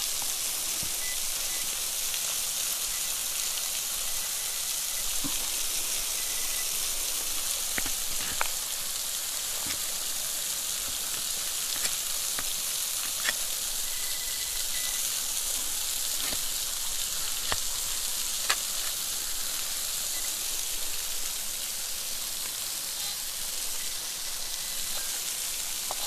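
Steady rushing hiss of a waterfall, with a few short sharp clicks scattered through it.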